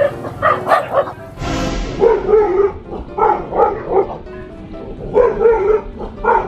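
A dog barking repeatedly in quick clusters of two or three barks, over background music.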